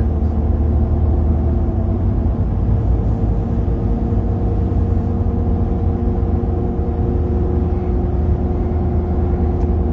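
Vehicle engine and road rumble, a steady low drone with a few constant tones over it.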